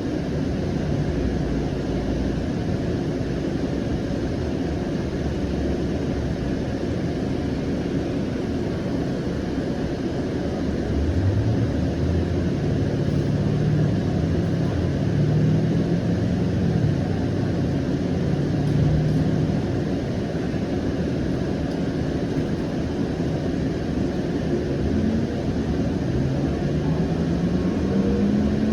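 Siemens S700 light rail car running, heard from inside the car: a steady rumble of wheels on rail, with the traction motors' whine rising in pitch about eleven seconds in and again near the end as the train gathers speed.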